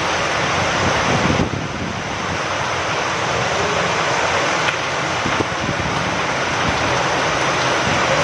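Steady rain falling, with wind.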